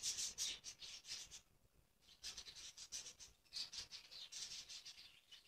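Small birds chirping and twittering faintly in quick high-pitched flurries, with a short lull about a second and a half in.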